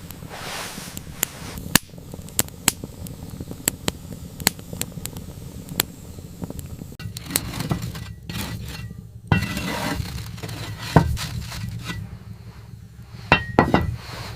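Irregular sharp taps and clinks of hard objects knocking together, with a few brief scraping noises, over a steady low hum.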